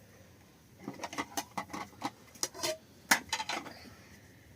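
A quick run of light clinks and knocks from small hard objects, starting about a second in, with the sharpest knock about three seconds in. The knocks thin out and stop near the end.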